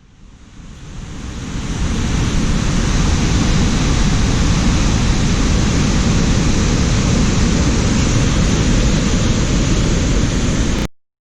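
Steady rushing of a waterfall, fading in over the first couple of seconds and cutting off abruptly near the end.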